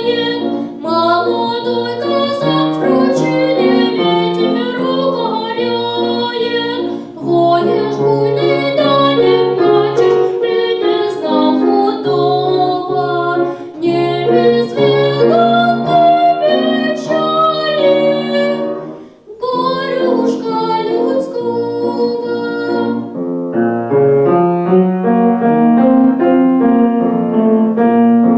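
Piano playing a melodic piece in a steady run of notes, with a brief pause about two-thirds of the way through.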